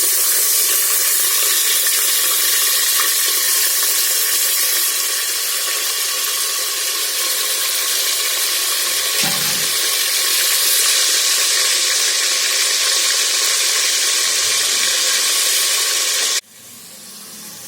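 Yogurt-marinated chicken pieces sizzling loudly in hot oil in a pressure cooker. The sizzle is steady and drops off sharply near the end, with a quieter sizzle continuing.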